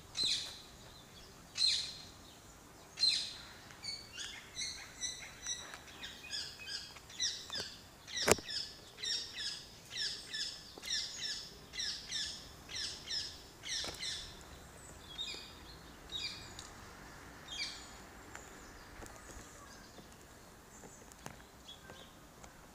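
Small birds chirping: a long string of short, high, downward-sweeping calls, coming thick and fast through the middle and thinning out toward the end. One sharp click stands out about a third of the way through.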